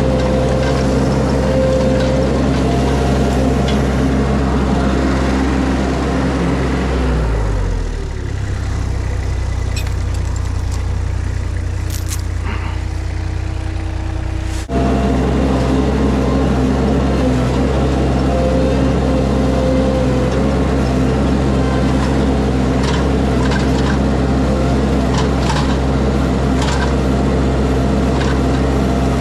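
Mini skid steer engine running at high throttle. About seven seconds in it drops to a lower idle, and about halfway through it jumps abruptly back to full throttle, with a few light clicks and clanks.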